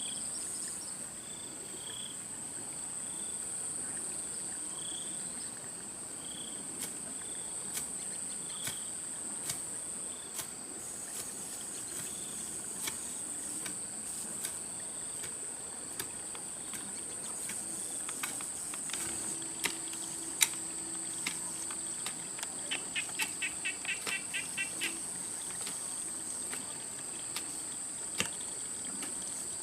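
Steady high-pitched insect drone of crickets or cicadas, with soft chirps repeating about once a second in the first third. Scattered sharp clicks and knocks run through it, with a quick run of about a dozen clicks near the end.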